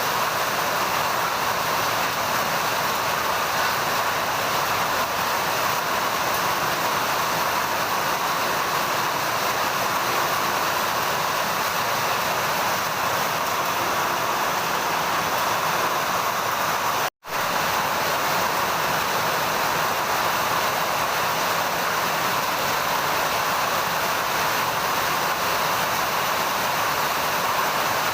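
Heavy rain falling steadily, a dense even hiss. The sound cuts out completely for an instant about two-thirds of the way through, then returns unchanged.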